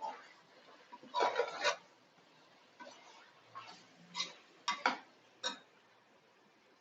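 A cooking spoon knocking and scraping against a metal pot while stirring chicken into masala: scattered short clinks and clatters, a denser run about a second in and a few more near the end.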